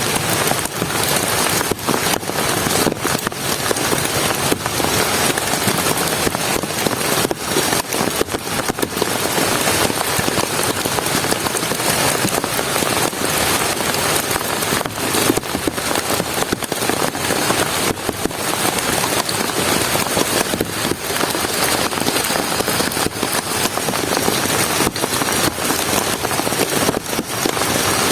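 Heavy rain falling steadily, with dense close-up hits of individual drops.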